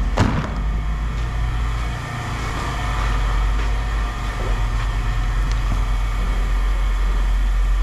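Engine or heavy machine running with a steady low drone. A single clank right at the start.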